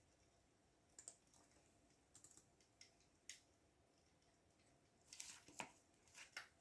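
Faint, irregular keystrokes on a computer keyboard: single clicks about one, two and three seconds in, then a quicker cluster of keystrokes near the end, over quiet room hiss.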